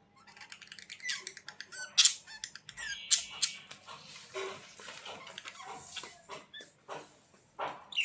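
Budgerigars chattering: a busy run of short, high chirps, squeaks and clicks with quick rising and falling warbles.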